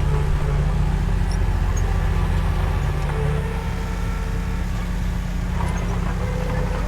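Diesel engine of heavy construction equipment running steadily, with a constant low engine note.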